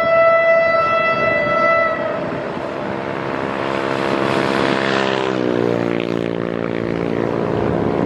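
Diesel locomotive's horn sounding one long blast that stops about two seconds in, then the locomotive's engine running as the train approaches, its note dropping in pitch about five seconds in and then holding steady.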